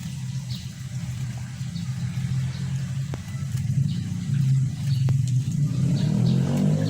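A motor engine running steadily, picking up and rising in pitch near the end. Faint short high chirps of small birds sound over it.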